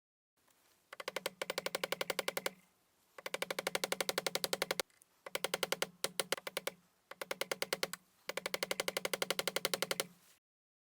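Rapid, evenly spaced clicking, about a dozen clicks a second, in five runs of one to two seconds each with short pauses between.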